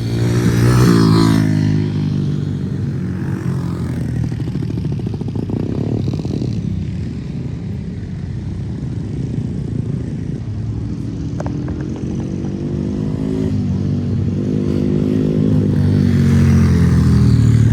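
A motorcycle engine revving up and down over and over, its pitch rising and falling, loudest near the start and again near the end.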